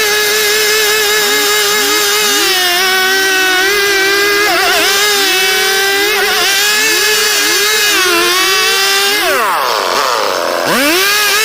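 STIHL two-stroke chainsaw running at full throttle while cutting wood, its high engine note sagging briefly again and again as the chain bites in. Near the end the throttle is let off: the note falls for about a second, then revs back up.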